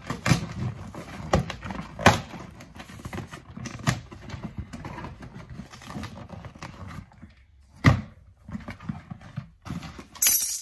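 A delivery package being handled and opened: rustling packaging with scattered sharp knocks and taps, and a brief sharp crackle near the end.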